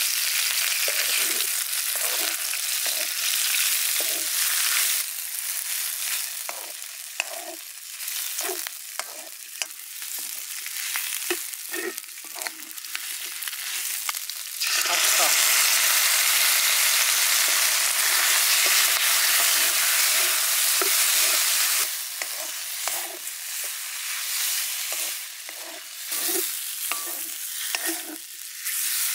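Pork chitterlings frying in a hot wok: a loud sizzle, with short scraping strokes as they are stirred through the pan. The sizzle swells about halfway through and holds steady and louder for several seconds.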